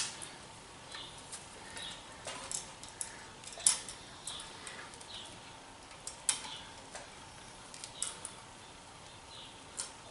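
Irregular small metal clicks and taps of hand tools and screws being worked while a mill DRO scale bracket is screwed down, with louder clicks about a third and two-thirds of the way through.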